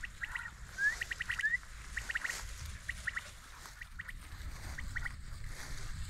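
Birds calling in the open: short, high chirps in quick clusters of two to four, with a couple of rising notes about a second in. A low rumble runs underneath.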